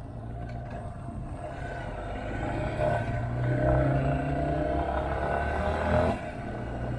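Motorcycle engine accelerating on the move, its revs and loudness climbing for a few seconds. The sound drops off suddenly about six seconds in, like a gear change, then picks up again.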